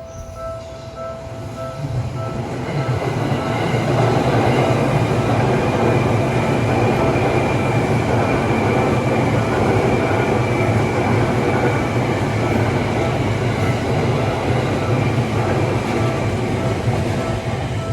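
A Seibu Railway electric commuter train passes over a level crossing close by, its wheels on the rails rumbling as it builds up about two seconds in and running loud until near the end. The crossing's warning bell rings at the start, is drowned out by the train, and comes through again as the train fades.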